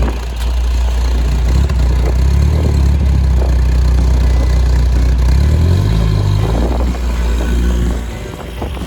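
1976 MGB's four-cylinder engine with long-tube headers running loudly under load. Its note shifts pitch about six seconds in and dies away near the end.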